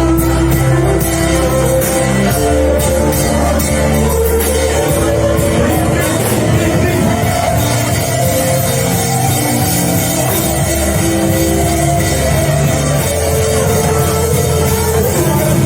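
Loud live band music with a steady beat, sustained keyboard or guitar notes and a heavy bass, playing without singing.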